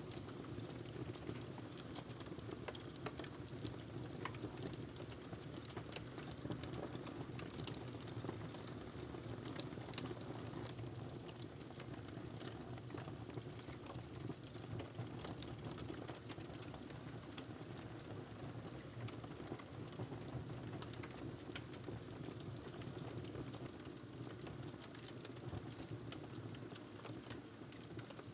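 Wood fire crackling in a fireplace: many small, irregular snaps and pops over a steady low rush of the flames.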